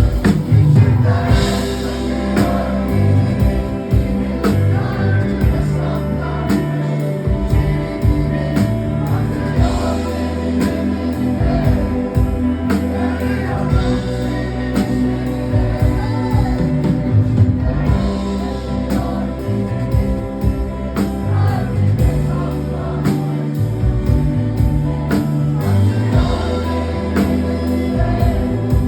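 Live rock band playing with a steady drumbeat and bass, with singing over it.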